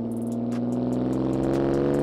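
Ford Mondeo ST220's 3.0-litre V6 with a straight-through exhaust accelerating, its note rising steadily in pitch.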